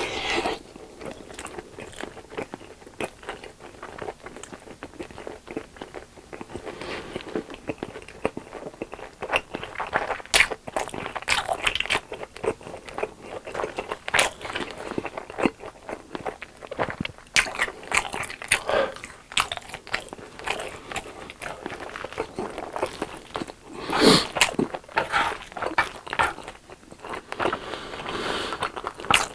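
Close-miked eating: repeated bites, crunching and wet chewing, with a few louder crunchy bites scattered through.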